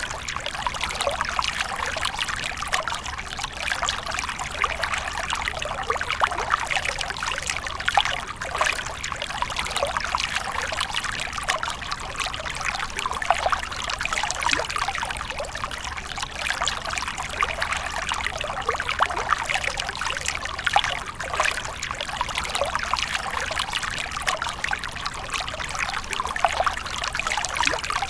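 Running water splashing and trickling without a break: a dense, even patter of many small splashes.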